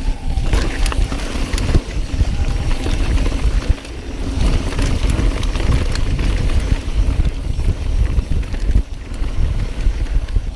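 Wind buffeting the microphone of a camera riding on a mountain bike moving fast downhill, with tyres on the dirt trail and frequent knocks and rattles from the bike over rough ground.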